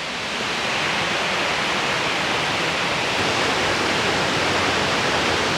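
Steady rush of whitewater from a creek's cascades and falls, an even hiss with no pauses.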